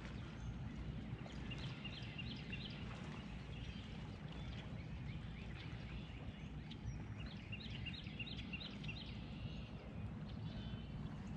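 A songbird singing two runs of quick repeated notes, the first about one and a half seconds in and the second around seven seconds in, over a steady low rumble.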